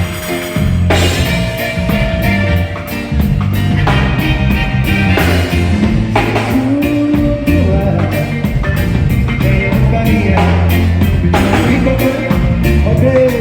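Live band playing at full level: a drum kit keeping a steady beat under a prominent bass line. The bass part is played on a keyboard by the keyboard player standing in for the bass player.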